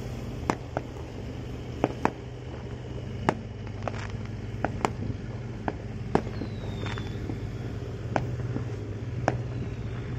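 Firecrackers going off in scattered single bangs at irregular intervals, over the steady low drone of a boat's engine.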